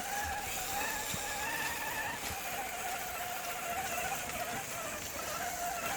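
Axial RC rock crawler's electric motor whining steadily as the truck drives, its pitch wavering slightly with throttle and load.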